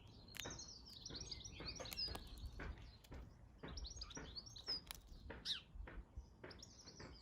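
Small garden birds chirping: a busy run of short, high chirps, several a second, with some overlapping.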